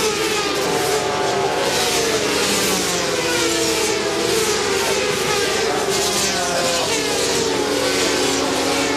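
Several SuperSport 400 racing motorcycles running at high revs, their engine notes overlapping and rising and falling as they accelerate and change gear.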